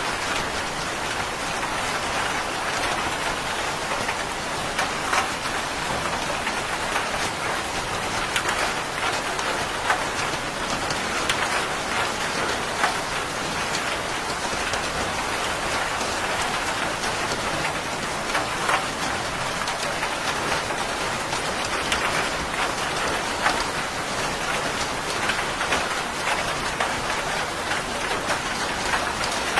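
Steady, heavy rain falling on a surface, a continuous hiss dotted with individual drop splashes.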